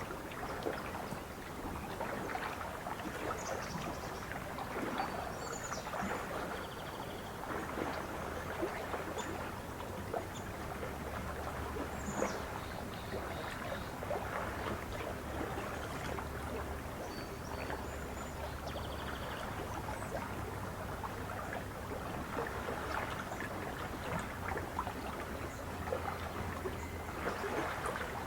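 Lake water lapping and splashing gently at the shore, with small splashes throughout. Birds chirp faintly now and then in the background.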